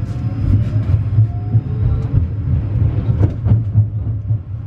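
Steady low rumble of a moving vehicle heard from inside, with light clicks and rattles over it.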